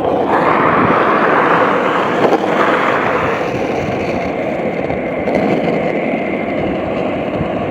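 Steady rush of car traffic on a road, tyre and engine noise without a distinct single vehicle, a little brighter in the first few seconds.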